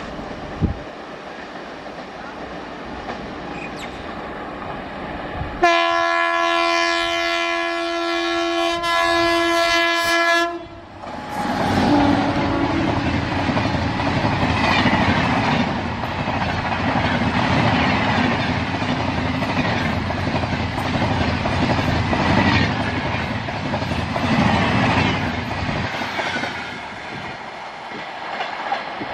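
WAP-7 electric locomotive approaching at speed and sounding one long air-horn blast of about five seconds. Its express coaches then rush past with a rolling clickety-clack of wheels over rail joints, fading near the end as the train recedes.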